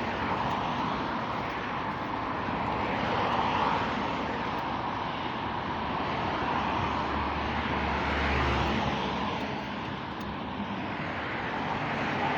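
Steady rushing road and wind noise heard while riding a bicycle. A low rumble joins in for a couple of seconds about seven seconds in.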